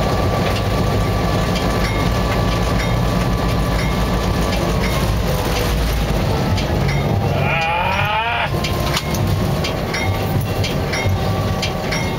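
Diesel locomotive engine running steadily, heard inside the cab, with the wheels clicking over rail joints in a steady rhythm a little under once a second. A brief wavering high tone sounds about eight seconds in.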